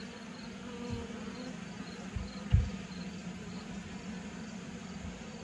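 Honeybees buzzing steadily around an open hive. A few short low thumps come through, the loudest about two and a half seconds in.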